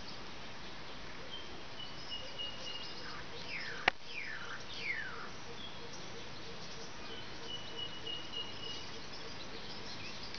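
Birds calling over a steady background hiss, with several quick falling whistled calls about three to five seconds in and thin high tones that come and go. A single sharp click just before four seconds in is the loudest sound.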